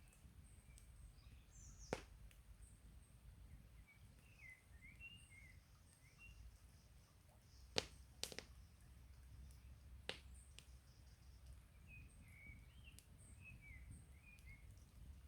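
Campfire wood giving a few sharp crackling pops, about four in all, with the loudest a little past the middle. Small birds chirp softly in two short runs, one before the pops and one after.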